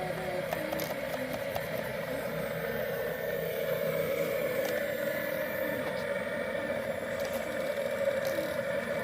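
Steady whir of radio-controlled model construction vehicles running, with occasional scraping and rattling; faint voices in the background.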